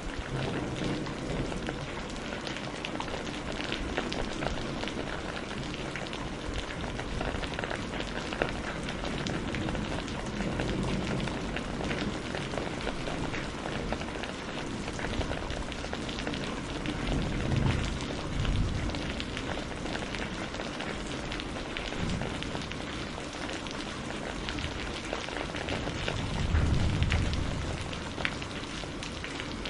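Steady rain falling on surfaces, with two low rumbles of distant thunder swelling up, one about halfway through and a stronger one near the end.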